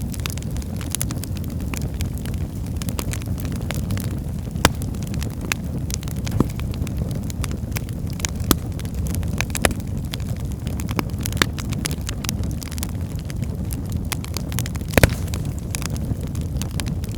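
Wood fire burning with a steady low rumble of flames and scattered sharp crackles and pops from the logs, a louder pop about 15 seconds in.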